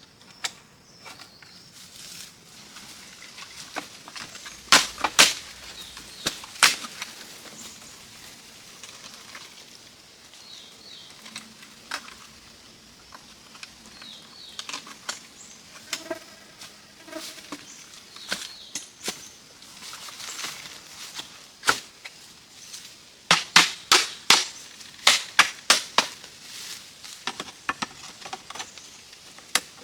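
A series of sharp knocks, some on their own and some in quick runs, with the densest run of several strikes near the end.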